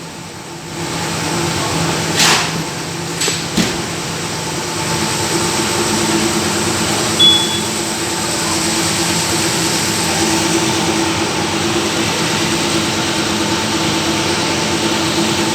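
Toyota Prado engine running with its accessory belt drive turning: a steady hum and whine, with a noisy pulley (a tensioner or idler pulley) suspected as the source. A few short knocks about two to four seconds in.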